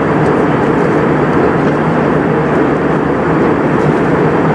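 Steady drone of an Airbus A320 heard from inside the passenger cabin: engine and airflow noise, strongest in the low range, with a steady low hum and no change in level.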